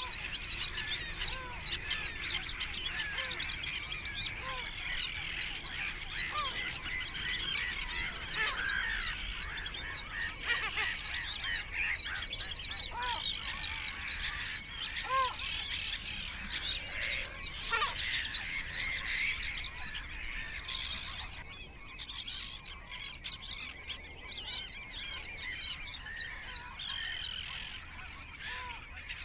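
A large flock of birds calling together, a dense, continuous chatter of many overlapping short calls that thins a little about two-thirds of the way through.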